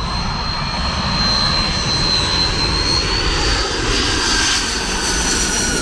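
Airliner passing low overhead on its landing approach: engines running with a high whine over a deep rumble, a second whine falling in pitch near the end.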